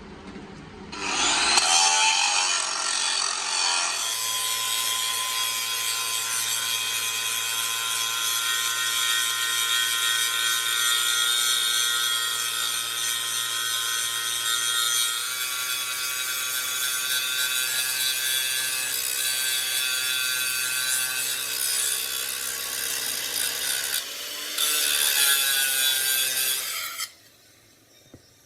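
A power tool running under load: a steady, loud rasping whine with a brief break about 24 seconds in, cutting off shortly before the end.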